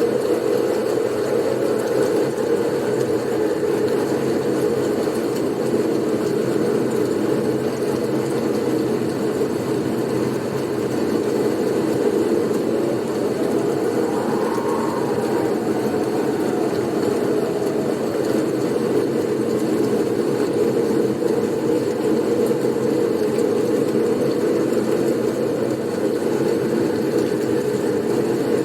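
Blizzard wind as a steady, dense rumbling rush, with a faint whistle that rises and falls about halfway through.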